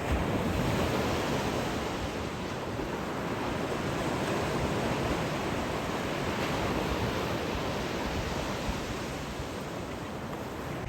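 Ocean surf washing onto the beach, a continuous hiss that swells about a second in, eases and swells again near the middle, then fades slightly toward the end.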